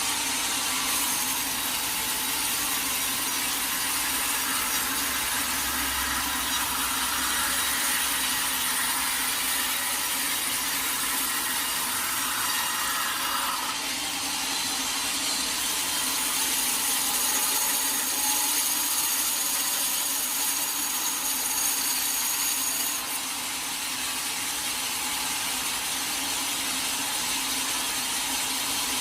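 Sawmill blade cutting through a teak log: a steady, continuous sawing noise with a low hum under it, changing slightly in tone about halfway through and again near the end.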